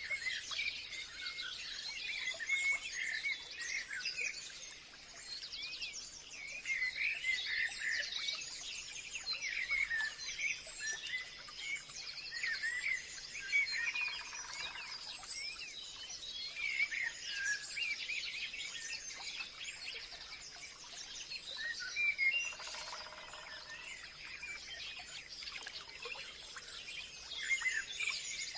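Forest birdsong: many birds chirping and trilling at once, with a steady high-pitched hum beneath them. Twice a lower, fuller call stands out briefly.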